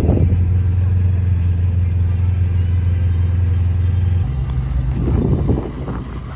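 A car engine running at low revs with a steady low hum. A little over four seconds in its note steps up to a higher pitch, and there is a brief swell of revving about five seconds in.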